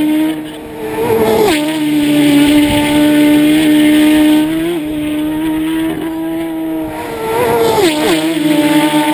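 Racing motorcycles going past flat out. Twice, about one and a half seconds in and again near the end, an engine note drops sharply in pitch as a bike goes by, over a steady high engine drone.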